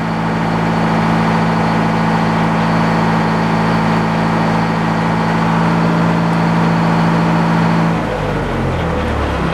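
Frick sawmill's engine running steadily at a loud, even pitch, then shut off about eight seconds in, its pitch falling as it winds down.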